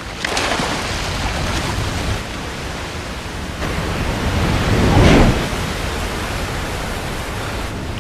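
Rushing water of a large waterfall, a steady noise that swells to its loudest about five seconds in.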